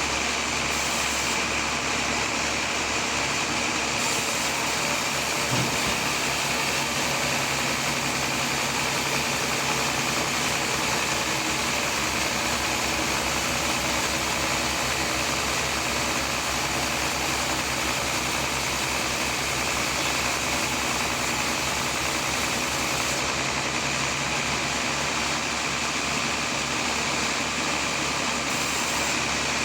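Sawmill machinery running steadily, an even engine-like drone that does not change.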